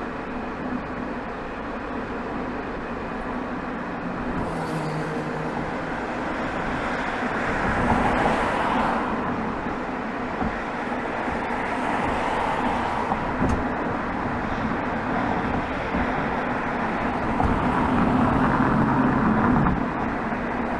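BMW 320xd's 2.0-litre four-cylinder turbodiesel (B47D20) heard at the exhaust tailpipe while driving in town, with tyre and road noise. It swells louder under acceleration about eight seconds in and again near the end.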